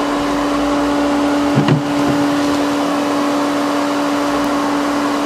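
Vacuum motor running with a steady hum, most likely the bee vacuum used to suck the bees up through its hose.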